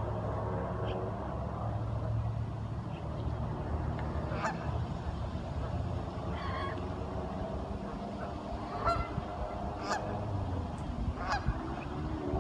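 Ducks calling in short honking calls, about five of them spread through the stretch, over a steady low rumble.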